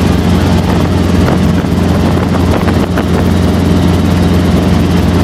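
Helicopter in flight: a loud, steady drone of rotor and engine.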